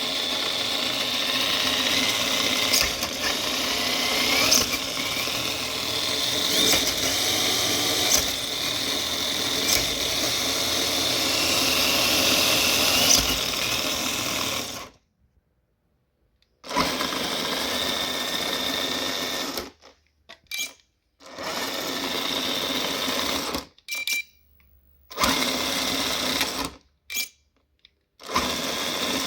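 Small electric motor whirring with a steady whine, with scattered clicks. About halfway through it cuts off abruptly, then comes back in several short runs that each start and stop sharply.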